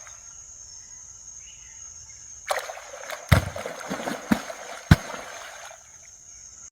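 Water splashing and sloshing for about three seconds, with three sharp knocks, over a steady high-pitched whine.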